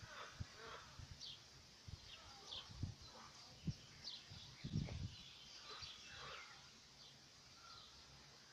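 Small birds chirping and calling, faint, with a few low thumps on the microphone, the loudest a little under five seconds in.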